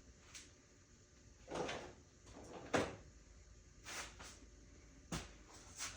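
Tools and parts being handled during spark plug work: a series of short, separate knocks and clatters, the loudest about three seconds in.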